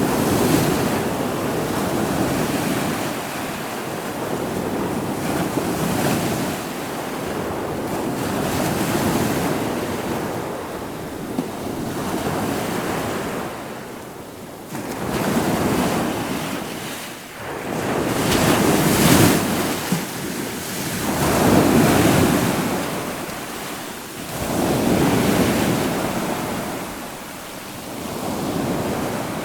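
Ocean surf: waves breaking and washing ashore one after another, the noise swelling and falling back every few seconds.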